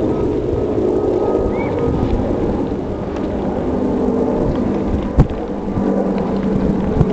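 Steady low engine rumble: the departing Airbus A380's jet noise mixed with the hum of the boat it is filmed from. One sharp knock about five seconds in.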